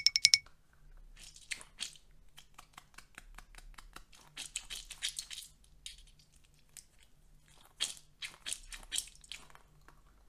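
Quiet, irregular small clicks and crackles coming in uneven clusters, with denser runs around the middle and near the end.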